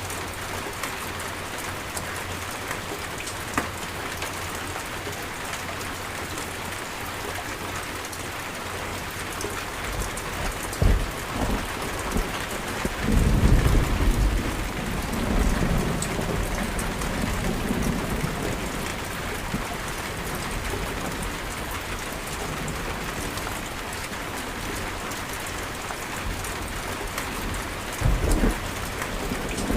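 Steady rain falling on surfaces, with thunder: a low rumble starts about a third of the way in, a loud clap near the middle rolls on for several seconds, and a shorter burst of thunder comes near the end.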